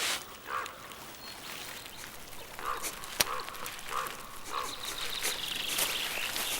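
Swamp sounds of brown bear cubs at play: scattered short soft splashes and grunts, a sharp crack about three seconds in, and a high buzzing trill from about five seconds on.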